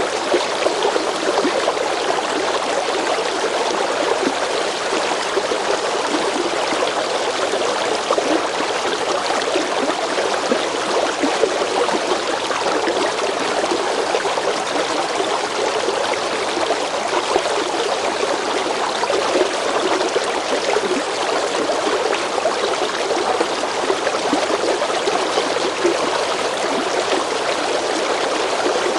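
River water running steadily over rocks, a continuous rushing babble with many small splashes and gurgles.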